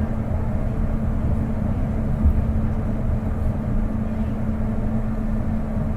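Running sound inside a Kobe New Transit 2020-series rubber-tyred automated guideway train car: a steady low rumble with a constant hum, the car travelling along the guideway between stations.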